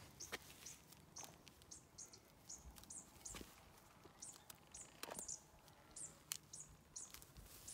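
Near silence, with a small bird giving faint, high, short chirps about twice a second, and a few soft clicks.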